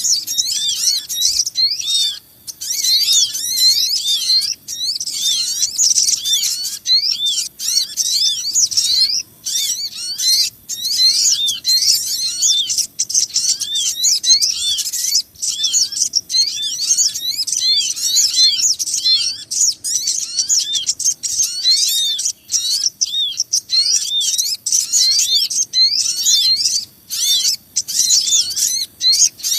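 Bird-lure recording of small birds, the sogon among them: a dense, restless chorus of rapid, high-pitched chirps and twitters with only brief gaps, played to draw small birds in for trapping.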